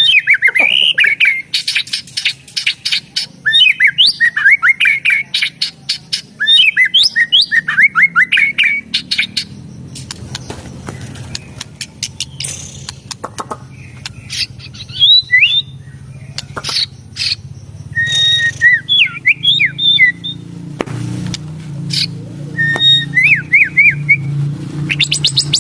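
White-rumped shama (murai batu) singing: whistled phrases mixed with rapid runs of sharp clicking notes, the chattering 'tretekan' style. A low steady hum comes up under the song from about halfway and grows louder near the end.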